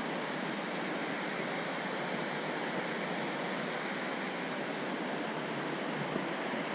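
Steady rushing of a waterfall's falling water, an even, unbroken wash of sound.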